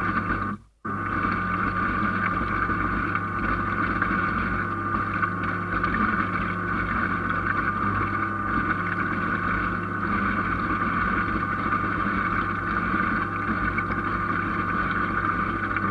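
A boat motor running steadily: a constant whine over a low hum, with a brief dropout about a second in.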